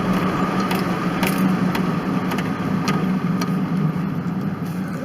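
Ford F-150 Triton V8 with a K&N cold air intake and Flowmaster Super 44 muffler running at a steady, unchanging pitch, heard from inside the cab with the windows down.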